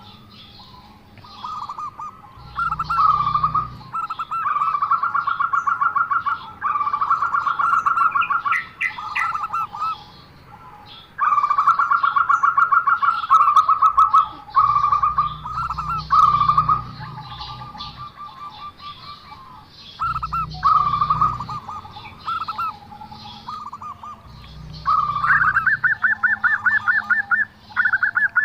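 Zebra dove (perkutut) singing its unusual song: repeated phrases of rapid pulsed cooing notes, each lasting one to a few seconds with short gaps between them. Near the end a phrase sits higher in pitch.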